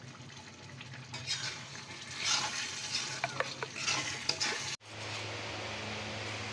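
Brinjal sabzi frying in a pan, a spatula stirring it with repeated scrapes and clicks against the pan over the sizzle. After a cut about five seconds in, a steady sizzle.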